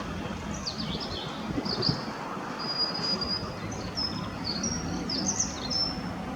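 A small songbird singing a varied phrase of quick high chirps, short downward sweeps and brief held whistles, over a steady low rumble.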